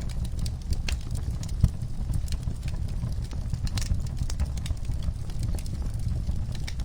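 Wood fire crackling in a fireplace: irregular sharp pops and snaps over a steady low rumble of the flames, with one louder pop about a second and a half in.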